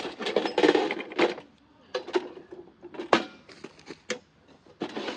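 Hard objects being handled: a string of sharp clicks and knocks, roughly one every half second to second, with a brief rustle near the start.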